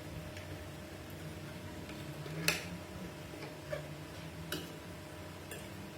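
A few scattered sharp clicks or taps, the loudest about two and a half seconds in, over a steady low hum.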